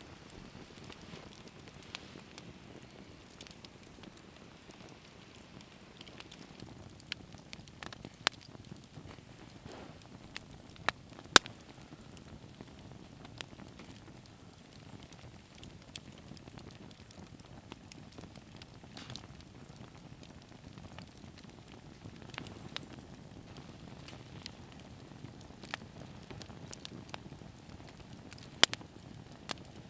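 Bonfire crackling, with sharp irregular pops over a low, steady rumble of flames; one pop about a third of the way in is the loudest.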